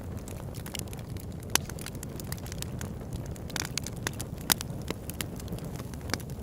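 Campfire burning and crackling: frequent sharp pops and snaps over a steady low rumble, with two louder pops about one and a half and four and a half seconds in.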